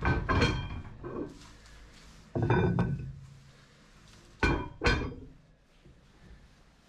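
Metal pieces knocking and clanking together several times, each knock with a short metallic ring.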